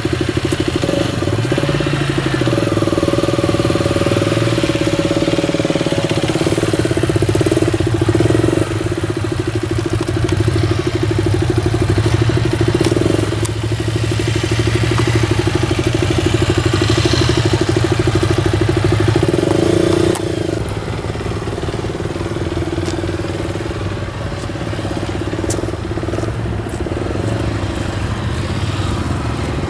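Motorcycle engine running at low revs for slow-speed riding, the throttle opened and closed in small amounts. It gets a little quieter about twenty seconds in.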